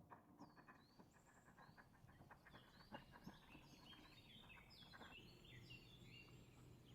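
Faint chirping of small birds, many short calls overlapping and growing busier about halfway through, with scattered faint clicks.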